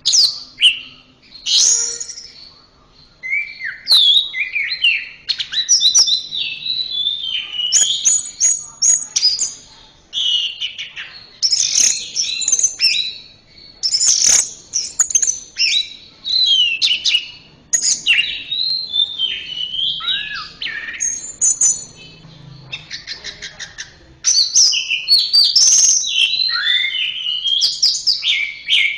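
Orange-headed thrush singing a long, varied song of whistled phrases and rapid high trills, broken only by brief pauses.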